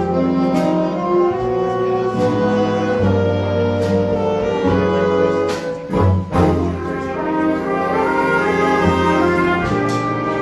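A high school jazz big band playing, with brass (trumpets and trombones) carrying held chords over bass and drum hits; a short drum break falls about six seconds in.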